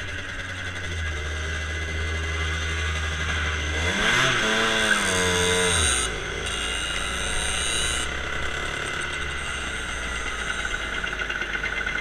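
Road traffic heard from a ride: a steady engine and road hum, with a vehicle engine revving up and back down about four seconds in.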